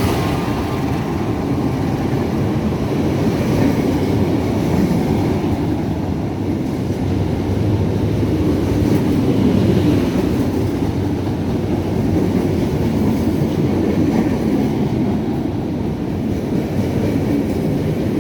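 A train passing close by, its wheels running on the rails with a steady, loud, low rumble.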